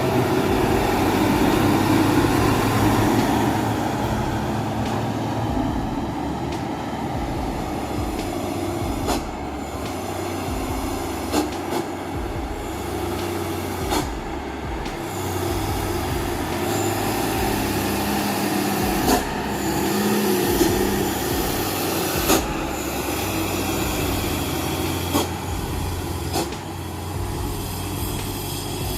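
A heavy vehicle running steadily, with a low engine drone and occasional sharp knocks and clanks.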